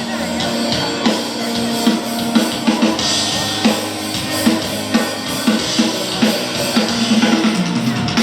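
Live band rehearsing at a sound check, drum kit prominent with kick and snare hits under a held bass note and cymbals; the playing stops abruptly at the end.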